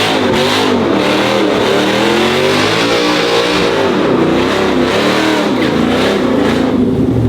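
Truck engines revving, the pitch rising and falling again and again.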